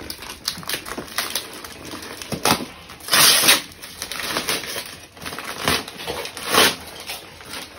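Gift packaging being unwrapped: paper crinkling and tearing in a string of short rustles, with louder bursts a little past three seconds in and again about six and a half seconds in.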